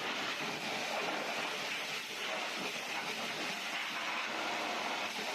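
Steady rushing hiss of car-wash spraying equipment, even and unbroken, with no clear tone or rhythm.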